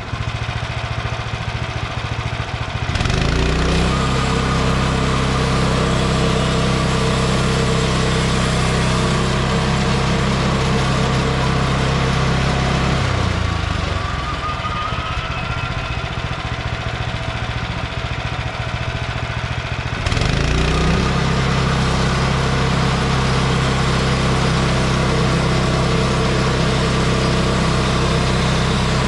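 Gas engine of a Frontier OS23 bandsaw sawmill running. It idles, is throttled up to a steady high speed about three seconds in, drops back to idle midway, and is throttled up again about two-thirds of the way through.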